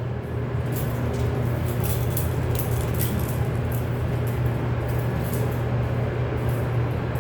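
Steady low hum of running machinery, with faint scattered clicks over it.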